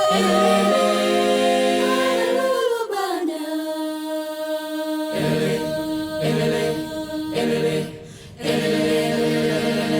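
School choir singing a cappella in held chords. About three seconds in the upper voices slide down onto a long held note, the low voices come back in about two seconds later, and the singing breaks off briefly near eight seconds before resuming.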